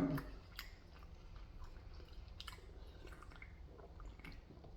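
Faint chewing of Korean fried chicken, with a few soft mouth clicks scattered through it.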